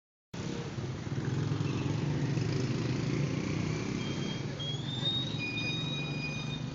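A motor vehicle engine running steadily, starting abruptly after a brief moment of silence. In the second half a few thin, high-pitched tones ring over it.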